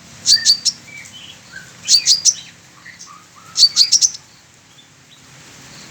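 Sunbird singing: short bursts of three or four sharp, high chirps, repeated about every second and a half. Softer, lower single notes come between the bursts.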